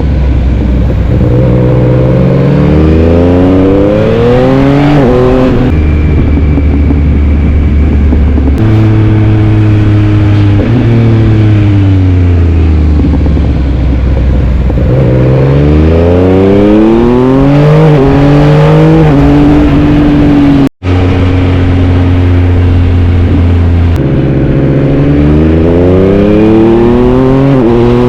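Yamaha MT-09's three-cylinder engine running hard: the pitch climbs and drops again and again as the bike accelerates and upshifts, with some stretches where it falls away on deceleration. The sound cuts out for an instant about two-thirds of the way through.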